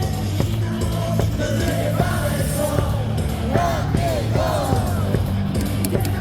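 Baseball stadium crowd singing and shouting a team cheer song over loud amplified music with a steady beat.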